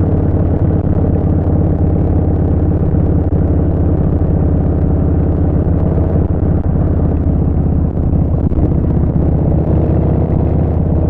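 Harley-Davidson Street Bob 114's Milwaukee-Eight V-twin running steadily through a Vance & Hines Short Shots full exhaust as the motorcycle rides along, the engine note holding at an even pitch.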